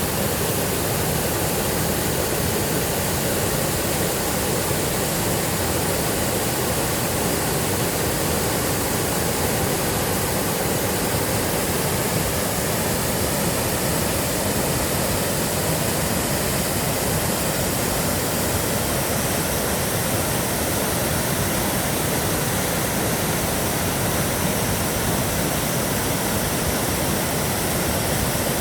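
Waterfall on a mountain river, water pouring and splashing in a steady, loud rush.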